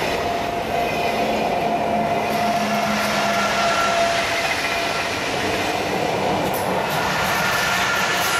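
SBB double-deck electric passenger train passing close by: steady rolling noise of the wheels on the rails with a steady whine on top, swelling to its loudest in the middle and easing off as the train moves away.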